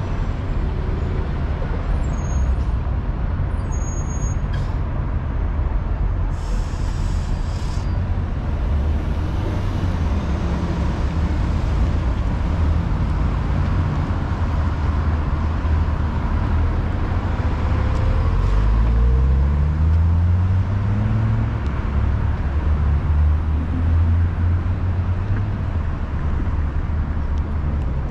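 Street traffic rumbling steadily, with a short hiss about six seconds in. Around two-thirds of the way through, a heavy vehicle's engine pulls away, rising in pitch.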